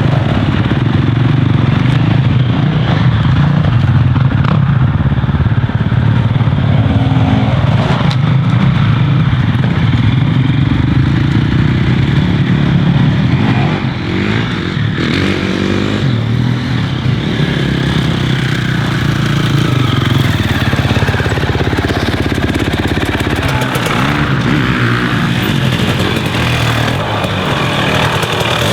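KTM dirt bike engine running and revving, its revs rising and falling throughout.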